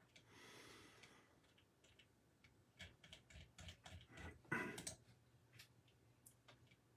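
Near silence with faint, scattered small clicks and taps, a slightly louder cluster about four and a half seconds in.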